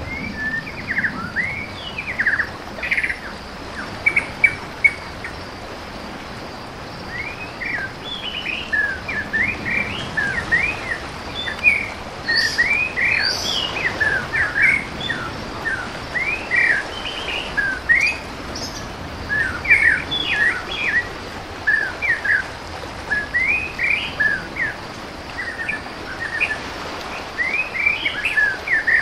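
Birds chirping: many short, quick calls overlapping one another throughout, over a steady background hiss.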